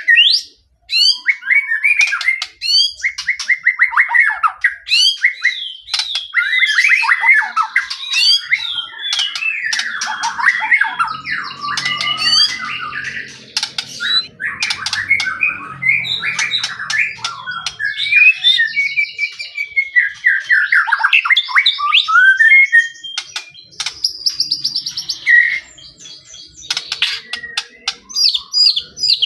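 White-rumped shama (murai batu) in full, energetic song: a near-continuous run of varied whistles, trills and sharp clicks, with a short break about a second in.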